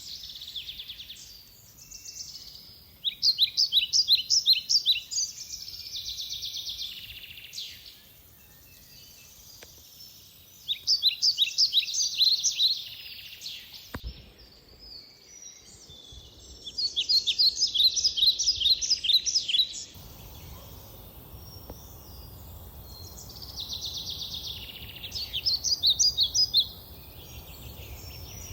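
Songbird singing: a fast phrase of quick, high repeated notes comes back every six to eight seconds, with softer warbling between the phrases.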